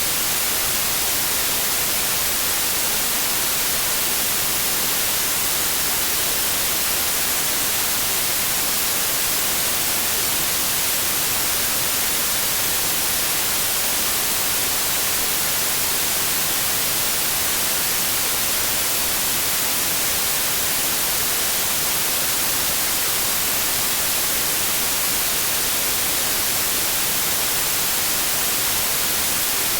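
Steady synthetic white noise: an even, unchanging hiss with no tones or breaks, heavier in the treble.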